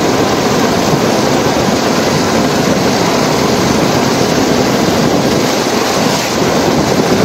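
Steady rushing road and wind noise of a car driving at speed, heard from inside the vehicle.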